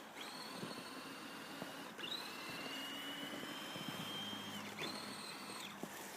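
Electric motor and gears of an Axial Honcho RC scale truck whining in throttle bursts as it pushes through snow on Pit Bull tires. The whine jumps up about two seconds in, holds steady, and cuts off just before five seconds in, with another short burst near the end.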